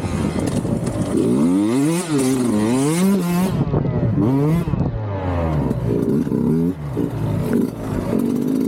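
2021 Sherco 125 SE Factory two-stroke enduro engine through a Fresco exhaust, revving up and dropping back again and again as the bike is ridden, its pitch climbing and falling several times.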